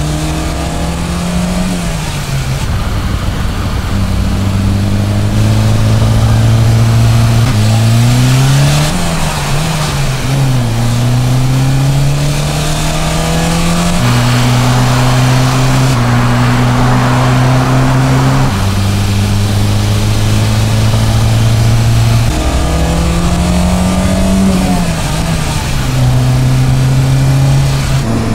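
Volkswagen Golf 8 GTI's turbocharged 2.0-litre four-cylinder engine and exhaust under way: the note holds steady for stretches, then rises with the revs and drops back at gear changes several times, most clearly in the middle and near the end. A rush of road or wind noise swells in the middle.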